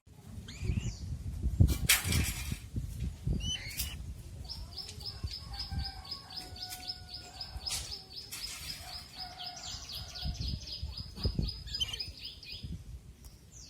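A bird calling: a long, fast series of high chirps, about five a second, starting a few seconds in and stopping shortly before the end, over low rumbling thumps.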